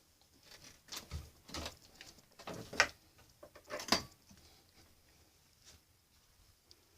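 A few sharp knocks and scuffs, four louder ones over about three seconds and then only faint small sounds, from someone moving about and handling things inside an old wooden trailer.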